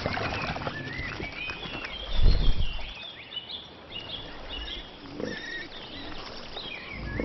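Wild animals calling: many short, high chirping and yelping calls, some sliding down in pitch, repeat throughout. A louder, short low sound comes about two seconds in.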